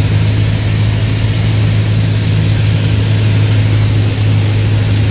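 Cessna light aircraft's piston engine and propeller droning steadily at constant power, a low, even hum with no change in pitch.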